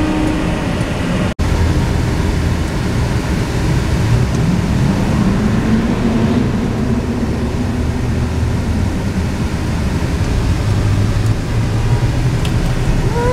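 Truck horns sound briefly at the start, then cut off suddenly. After that comes a steady low rumble of vehicle engines and road noise from the trucks on the road.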